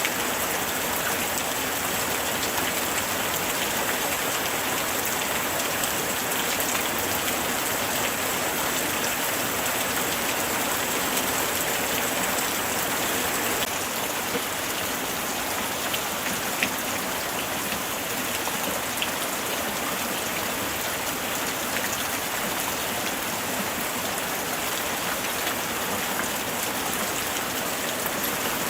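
Steady light rain, a dense patter of many small drops falling.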